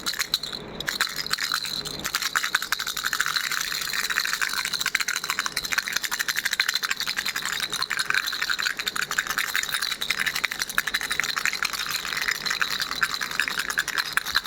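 A pink ball baby rattle shaken without pause, making a fast, dense rattling.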